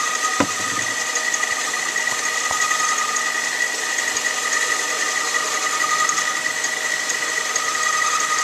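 Small metal lathe running with the tool taking a light cleanup cut on the turned part: a steady machine whine with two high tones, and a few faint knocks in the first few seconds.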